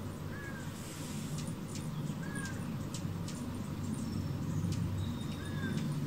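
Bird calls: a short, slightly falling note repeats every two to three seconds among scattered sharp, high ticks, over a steady low rumble.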